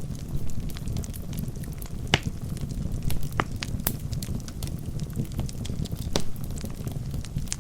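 Wood fire burning in a fireplace: a steady low rumble of flames with frequent irregular crackles and pops from the burning logs, a few of them sharper.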